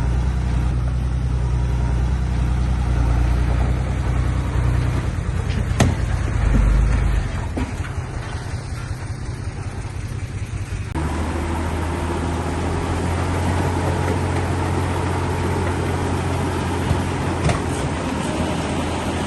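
Heavy diesel earthmoving machinery engines running steadily, with a single knock about six seconds in. About eleven seconds in the engine sound switches abruptly to a different steady drone.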